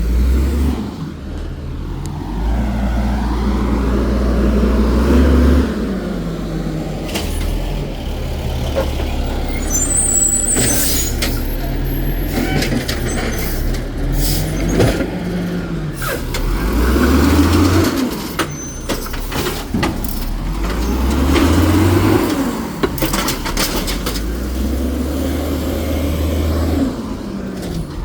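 Garbage truck engine revving hard and dropping back, over and over, to drive the packer as it compacts trash, with short hisses of air near the middle.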